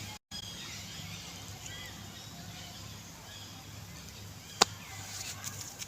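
Outdoor background with a steady low hum and faint high chirps, the sound dropping out for a moment just after the start, and one sharp click about three-quarters of the way through.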